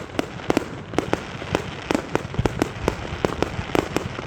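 Fireworks going off in a rapid, irregular string of sharp bangs and cracks, several a second, over a low rumble.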